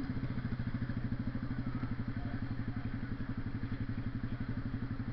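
Honda CB 300R's single-cylinder engine idling, a steady, even chuffing of rapid exhaust beats.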